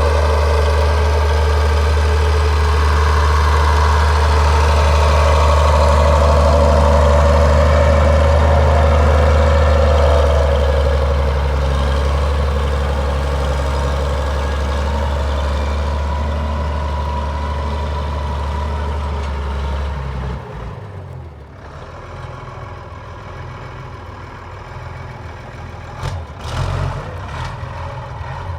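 1174 tractor's engine working steadily under the load of a plough. It is loudest in the first ten seconds, then fades as it draws away, dropping off sharply about two-thirds of the way through, with a few faint knocks near the end.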